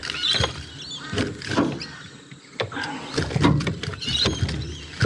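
A small hooked trevally thrashing and splashing at the surface beside the boat, with a string of sharp splashes and knocks.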